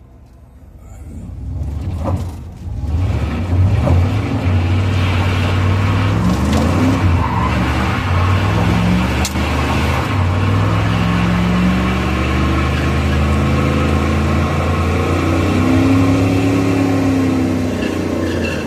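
Chevrolet Camaro Z28's V8 engine heard from inside the cabin, building from quiet over the first three seconds to hard running, its pitch rising and falling again and again as the throttle is worked. A steady rushing noise runs under it.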